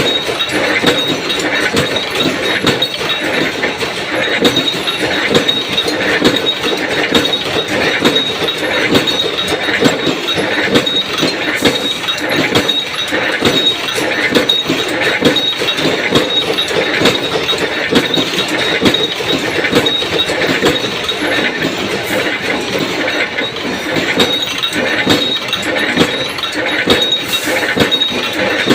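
Mechanical punch press stamping metal washers: a steady run of rhythmic metallic strokes and clinks, with a constant high-pitched tone underneath.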